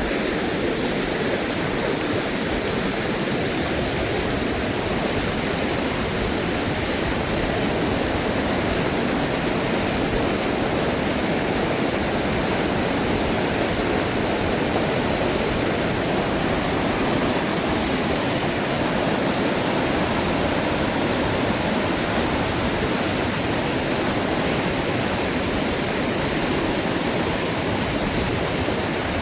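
Fast-flowing river water rushing, a loud, steady, even noise that does not change.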